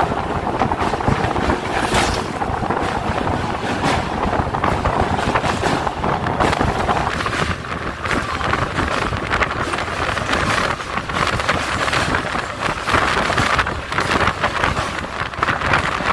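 EMU local train running at speed over a steel truss bridge: steady rumble of the wheels with a dense clatter over the rails, and wind buffeting the microphone through the open doorway.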